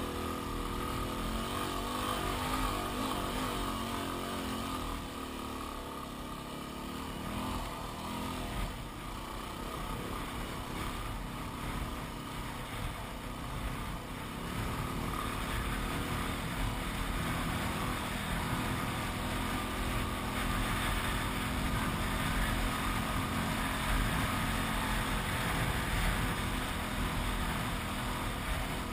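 Yamaha WR250R's single-cylinder four-stroke engine running steadily under way on a dirt track. It eases off for a few seconds early on, then picks up and runs harder toward the end.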